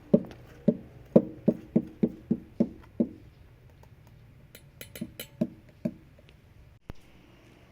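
A quick series of hollow knocks, about nine in three seconds, then a few softer, scattered taps.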